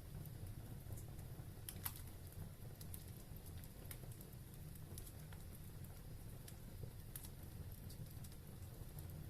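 Wood fire burning in a fireplace: a low steady rumble of the flames with scattered small crackles and pops, one sharper crack about two seconds in.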